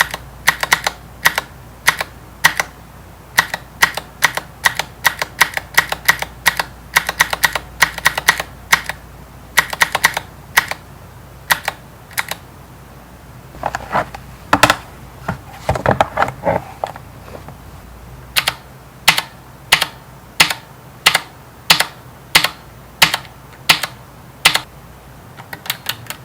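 Stylus tip tapping and writing on an iPad Pro screen fitted with a Paperlike matte protector: a run of sharp, irregular clicks, a few a second, with a stretch of denser scratchy strokes about halfway through.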